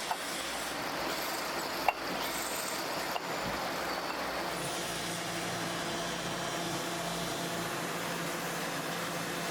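Steady workshop machinery noise with a few sharp metallic clicks in the first few seconds; a low steady hum joins in about halfway through.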